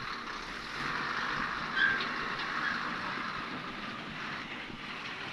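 Heavy machinery running steadily, from an excavator and truck working on a slope, with a short squeal about two seconds in.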